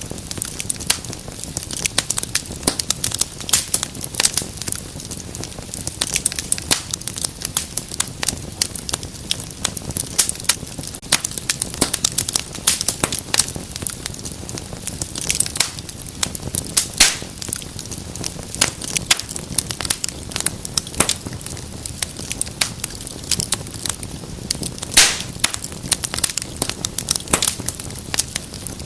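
Wood fire burning in a fireplace, with dense irregular crackles and pops over a steady low hiss of the flames.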